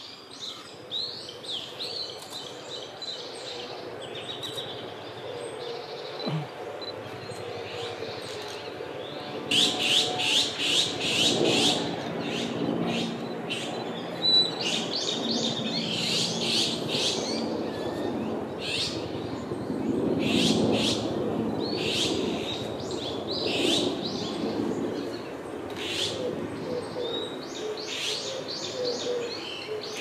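Bird calls: repeated bursts of rapid, high, chattering notes, several notes a second, coming again and again.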